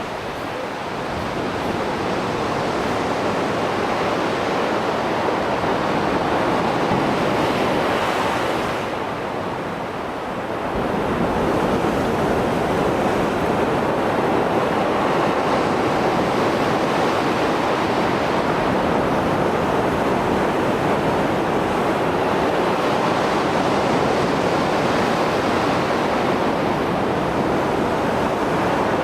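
Mediterranean Sea waves surging and breaking on the shore in the rough surf left after a storm: a steady wash of surf that eases briefly about nine seconds in, then swells back as the next wave comes in.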